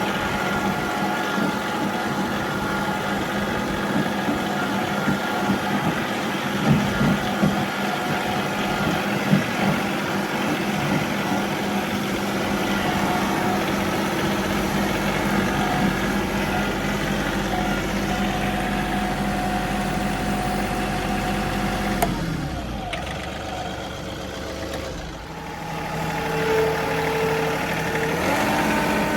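John Deere 3038E compact tractor's three-cylinder diesel engine running steadily, with a few knocks early on. About 22 seconds in the engine speed drops and it runs quieter for a few seconds, then revs back up near the end.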